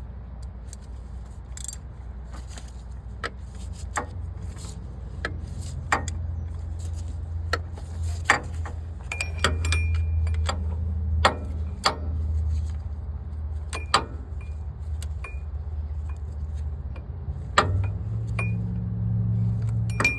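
Metal clicks and clinks of a wrench or ratchet on the water pump bolts of a Cummins ISX 15 as they are tightened, some with a brief metallic ring. A steady low hum runs underneath and grows louder near the end.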